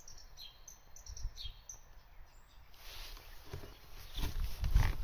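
A small bird chirping, repeated short high notes that fall in pitch. Over the second half, a low rumbling noise builds up, like wind or handling on the microphone.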